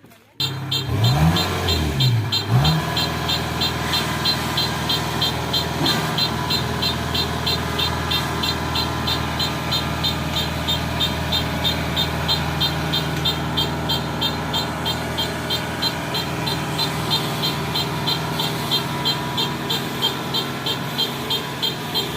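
Diesel engine of a Kubota tracked combine harvester running, revved up and down briefly near the start, then running steadily with a fast, regular ticking over it.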